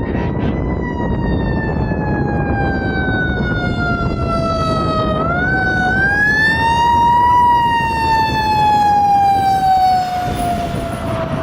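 Fire truck siren wailing slowly, its pitch falling, climbing back up about five seconds in, then falling away again, over the rumble of the passing truck.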